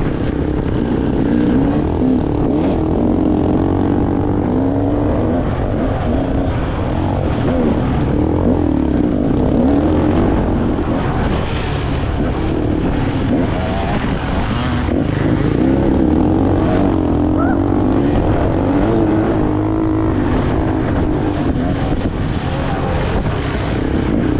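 Small off-road vehicle engines, trail motorbikes and a quad, running hard round a grass track. The engine note keeps rising and falling as the throttle is opened and closed.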